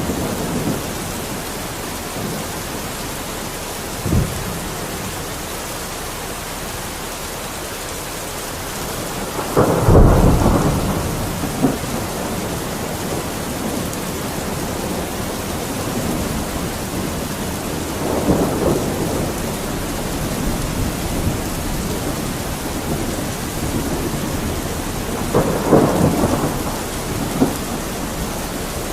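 Steady rain falling, an even hiss, with low rumbles swelling up and fading three times, about a third of the way in, past the middle and near the end. A single short low thump comes a few seconds in.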